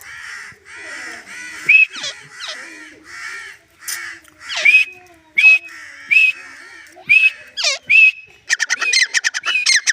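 Grey francolin calling: a repeated series of harsh, rasping notes, then sharper pitched call notes, breaking near the end into a fast run of short notes.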